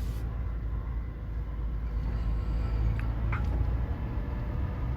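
Steady low rumble of a Toyota Tacoma pickup driving, heard inside the cab, with a couple of faint clicks about three seconds in.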